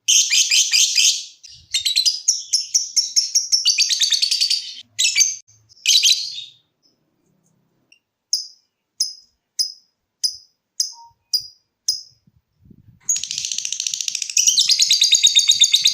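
Lovebird calling: rapid, high-pitched chattering trills (the "ngekek" song), then a short pause. Next comes a string of about seven separate short ticking chirps ("ngetik"), roughly 0.6 s apart. A long chattering trill follows near the end.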